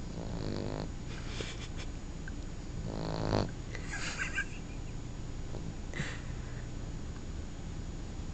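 Boston terrier puppy snoring in its sleep: two drawn-out snores about three seconds apart, the second louder, each followed by fainter, higher-pitched noises.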